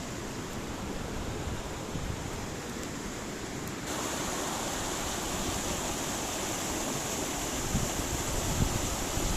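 Steady rush of flowing water from a stream. About four seconds in it becomes suddenly louder and brighter, and low wind buffeting on the microphone comes in near the end.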